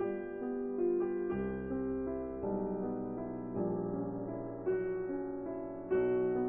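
Slow, gentle piano music, notes and chords struck about once a second and left to ring.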